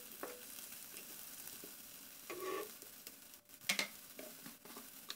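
Onion, ginger-garlic and green chilli masala sizzling faintly in hot oil in a kadai, with a few scrapes and taps of a wooden spatula against the pan as it is stirred.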